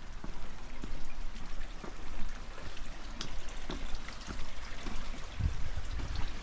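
Steady rain falling, with many separate drops heard as small close ticks over a constant hiss. A brief low rumble comes about five and a half seconds in.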